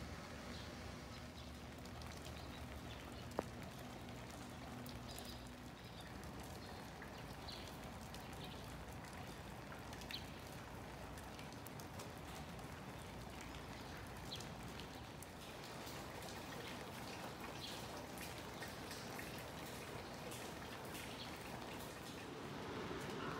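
Light rain falling, with scattered drops ticking on nearby surfaces. A faint steady hum fades out about six seconds in, and there is a single sharp click about three seconds in.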